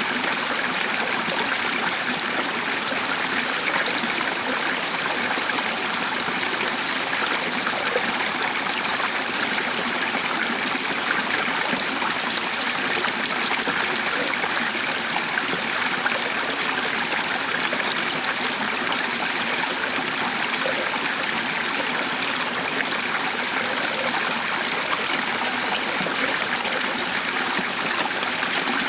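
Stream of running water flowing steadily, an even rushing and trickling.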